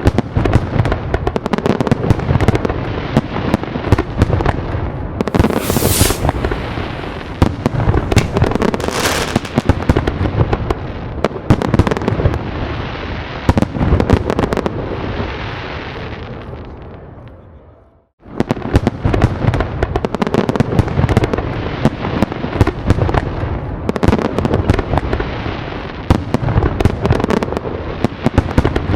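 Fireworks going off: a dense run of rapid bangs and crackling with deep booms underneath and a couple of brief hissing bursts. It cuts out abruptly about two-thirds of the way through, then starts again at once.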